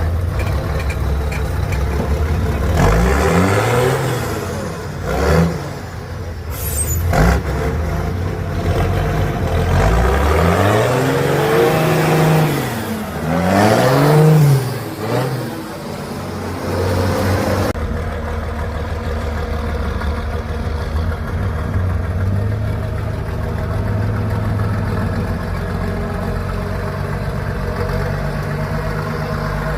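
A 6×6 trial truck's engine revved hard several times, its pitch sweeping up and falling back, then running at a steady, even speed for the second half.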